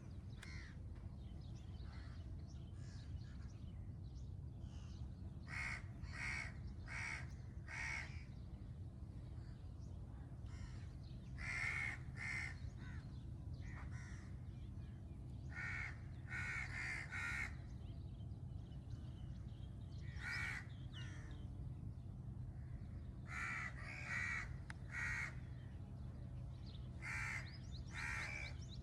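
A crow cawing repeatedly in short runs of two to four caws, with pauses of a few seconds between runs, over a steady low background rumble.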